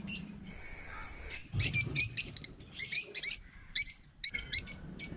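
A flock of African lovebirds chirping: a rapid, overlapping run of shrill, high-pitched chirps, with a thin steady high tone held for about a second near the start.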